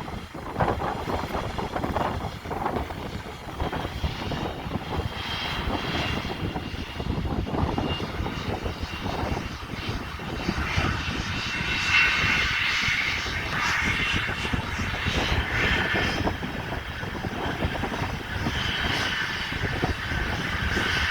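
Fixed-wing airplane's engine running, a steady low rumble with a higher whine that comes in about halfway through and grows stronger.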